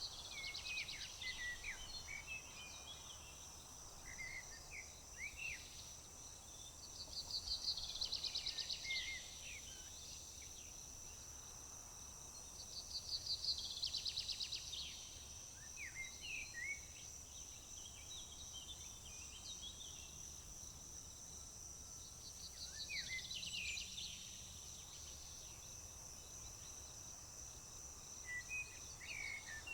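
A songbird repeatedly sings a fast trilled song, roughly every five or six seconds and about two seconds each time, with short chirps between, over a steady high-pitched drone of crickets or other insects.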